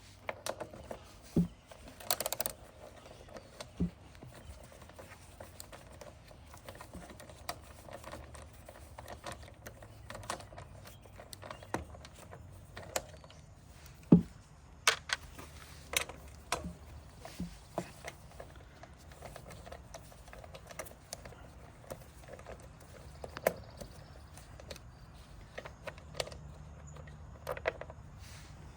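Irregular light clicks, taps and knocks of hand tools and small parts being handled, a few sharper knocks among them, over a faint low hum.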